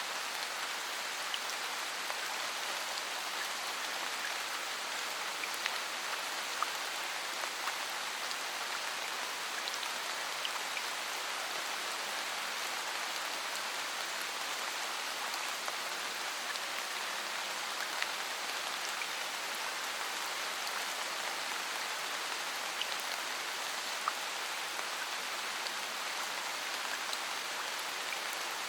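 Steady rain falling, an even hiss with scattered individual drops ticking sharply now and then. No thunder is heard.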